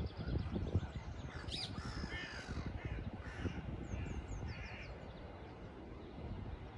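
Crows cawing several times in the middle, with small birds chirping high in the background over a steady low rumble.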